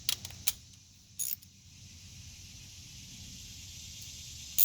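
Sharp metallic clicks and clinks of hand tools and fittings during work on car air-conditioning lines: three quick clicks at the start, a short rattle about a second in, and a louder clink near the end, over a faint steady hum.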